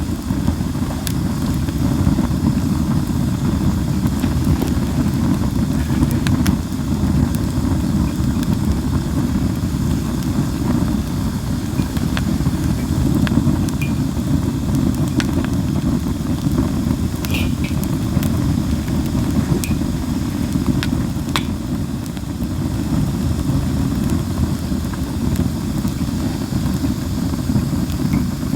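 Japanese linden (basswood) logs burning in an open fire, with a steady low rumble and sparse, sharp crackles and pops every second or two.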